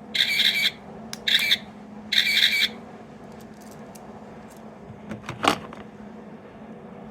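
Small sound-effect capsule toy playing a short electronic sound through its tiny speaker: four brief, bright tones in the first three seconds, then a single click about five and a half seconds in.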